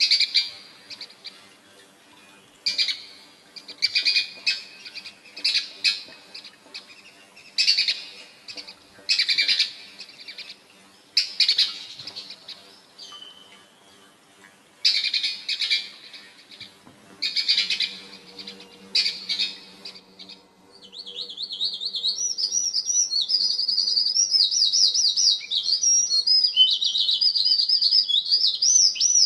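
Small birds chirping: short bursts of chirps repeat every second or two, then about twenty seconds in they turn into a continuous, fast, warbling twitter.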